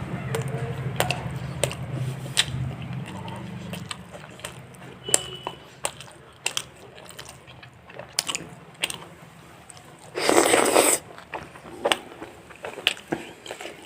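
Close-up eating of fried chicken: chewing with many short wet clicks and smacks, and a loud noisy burst lasting under a second about ten seconds in. A low steady hum runs underneath for the first four seconds, then stops.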